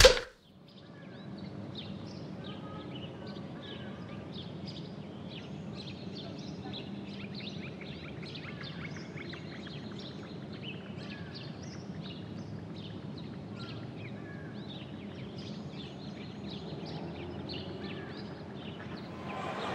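Birds chirping over a steady background hum, with many short, quick chirps throughout; a sharp click right at the start.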